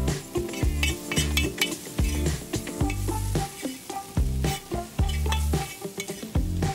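Steak fajitas sizzling on a steel Firedisc cooker while a metal spatula scrapes and stirs them across the pan. A background music track with a deep bass line runs underneath.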